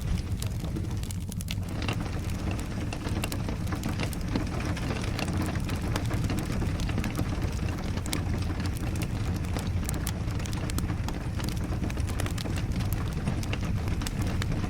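Steady rain with a low rumble, mixed with the scattered sharp crackles of a wood fire burning in a fireplace.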